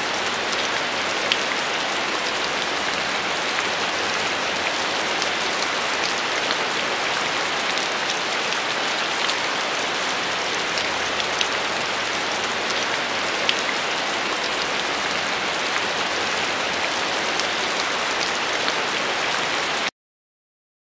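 Heavy rain falling, a steady dense hiss with scattered sharper drop splats, which cuts off abruptly near the end.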